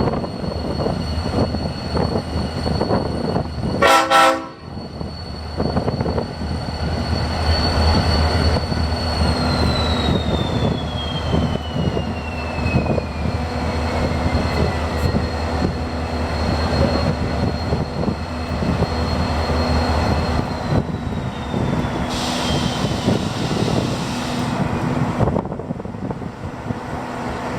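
Diesel-electric locomotive C501 running at high throttle, with a steady low rumble and a high whine, and one short horn blast about four seconds in. The whine then slowly falls in pitch and the engine eases off about twenty seconds in.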